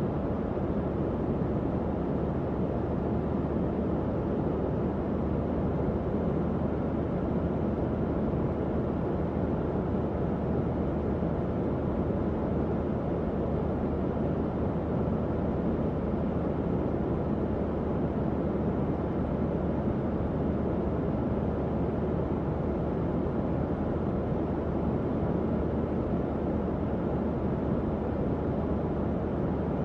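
Tower fan running steadily: an even low whoosh of moving air with a faint constant hum from its motor.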